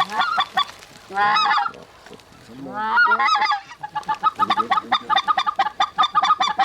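Goose honking and clucking: rapid short calls, two longer wavering calls in the first half, then a fast run of clucks.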